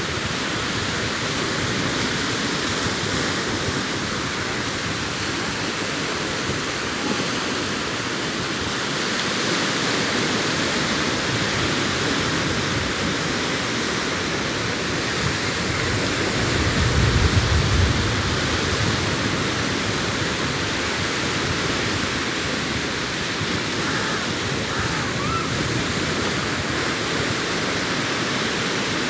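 Sea waves breaking and washing onto a beach, a continuous rushing surf. There is a louder, deeper surge about seventeen seconds in.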